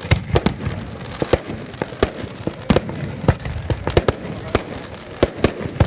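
Fireworks going off: an irregular string of sharp, loud bangs, roughly two or three a second, over a steady low rumble.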